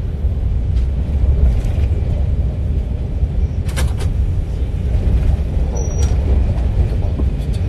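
Steady low rumble of a moving passenger train heard from inside the carriage, with a single sharp knock a little under four seconds in.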